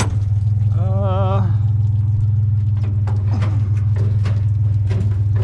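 Pickup truck engine idling steadily, with scattered knocks and clanks of scrap metal being handled.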